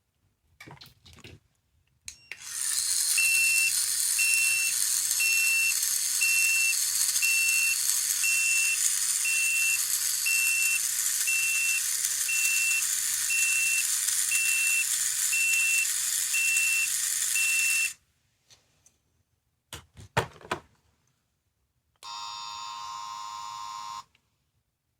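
Sound-effect capsule toy playing a recorded effect through its tiny speaker: a loud steady hiss with a short beep about once a second, lasting about sixteen seconds and cutting off suddenly. Button clicks come before it, and a second, shorter effect follows near the end.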